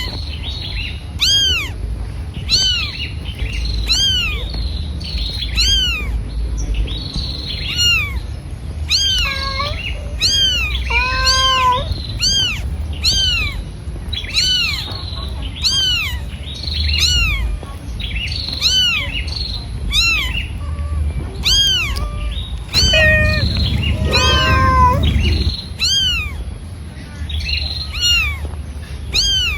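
Animal calls: short, high-pitched cries that rise and fall, repeated about once or twice a second, with a few lower, longer calls twice along the way.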